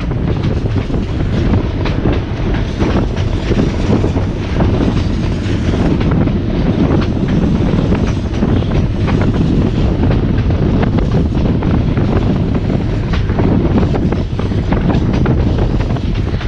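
762 mm narrow-gauge electric train running along the track: a steady rumble of wheels on rail with irregular clicks and clatter over the rail joints.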